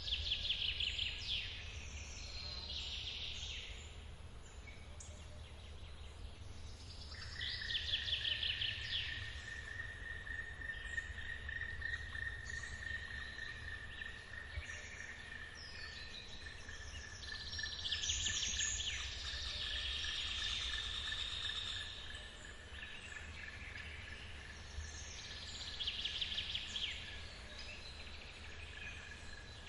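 Forest ambience: birds singing in bursts of quick trilled phrases every few seconds. From about seven seconds in, an insect holds a steady high-pitched tone. Under both runs the low, steady rumble of a waterfall.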